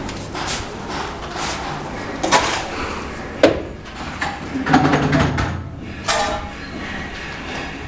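Irregular scrapes and knocks of hand work with mortar and tools, with a sharp knock about three and a half seconds in.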